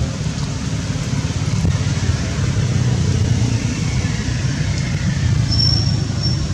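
Steady low rumbling background noise, with one short, high, thin squeak or whistle about five and a half seconds in.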